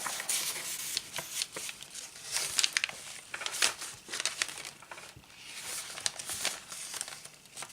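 Paper rustling and crinkling as the pages and paper flaps of a handmade journal are turned and handled, with several sharp, crisp flicks.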